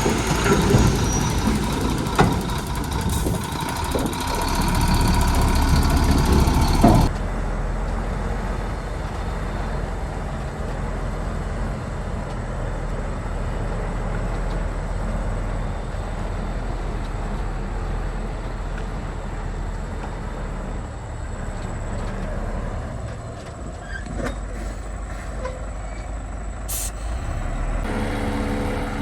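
Heavy diesel earthmoving machinery running. For the first seven seconds it works loudly with knocks and clanks; then, after an abrupt change, a steadier, quieter engine runs on, with one brief sharp hiss or click near the end.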